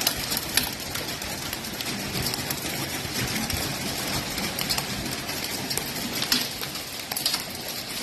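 Hail coming down: a steady rain-like hiss with sharp clicks of hailstones striking hard surfaces, scattered irregularly throughout.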